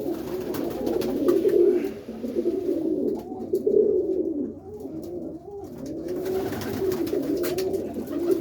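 Roller pigeons cooing in a loft: a continuous run of low, warbling coos.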